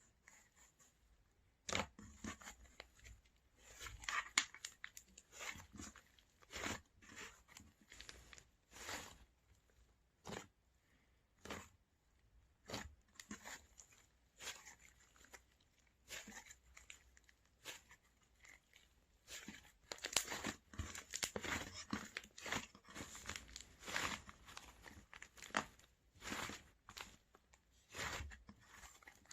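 Oreo-themed slime being worked by hand, giving irregular crunchy crackles and clicks. They come in busier runs about four seconds in and again past the twenty-second mark.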